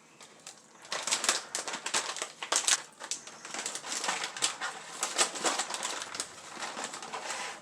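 Packaging of freeze-dried strawberries being handled and opened: irregular crinkling and rustling that starts about a second in and keeps going.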